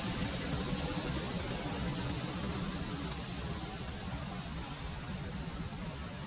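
Steady outdoor ambience: a low rumbling noise with a constant high-pitched insect drone, like crickets or cicadas, running over it.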